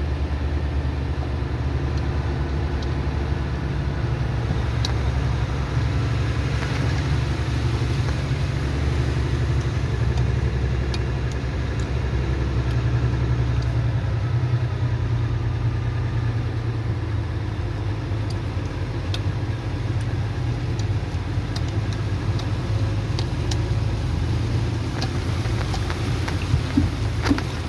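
A vehicle engine running steadily with a low, constant hum; the deepest part of the hum shifts slightly about halfway through.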